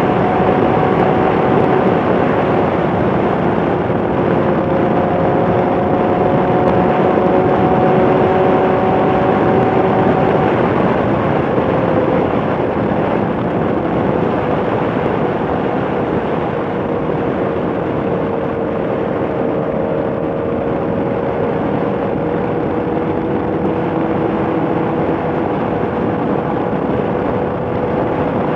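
Motorcycle under way: heavy wind and road rush over a steady engine hum. The engine's pitch eases down a little about eleven seconds in.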